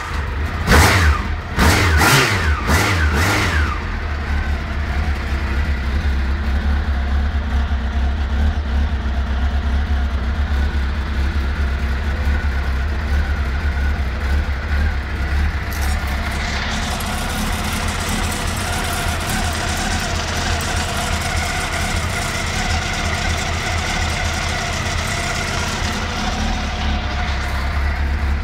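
Honda CBR1000F's inline-four engine blipped a few times in the first few seconds, then idling steadily.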